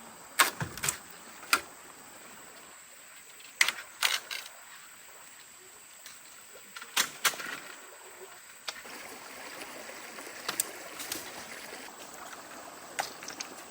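Scattered sharp knocks, about ten of them at irregular intervals, over a steady background hiss of moving water.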